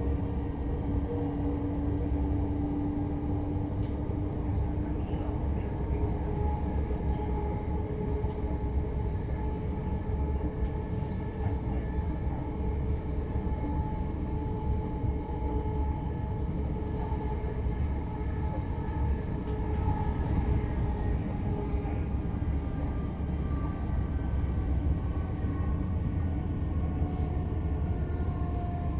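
c2c electric multiple-unit train running at speed, heard from inside the carriage: a steady low rumble of wheels on the track under a traction-motor whine whose pitch drifts slowly, with scattered light clicks.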